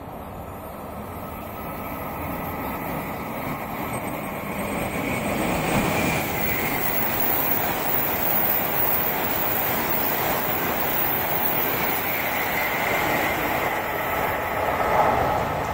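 E7-series Shinkansen passing through a station at speed without stopping. A rushing noise builds over the first six seconds or so as the train comes out of the tunnel, then holds loud and steady as the cars go by.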